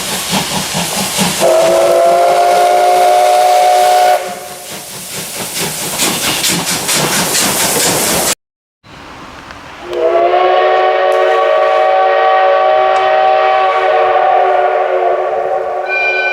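Steam locomotive whistle of the SL Ginga's C58 239, blown twice: a blast of about three seconds over loud steam hiss and rapid exhaust beats, then after a short break a longer held blast of about six seconds. The whistle sounds a chord of several steady tones.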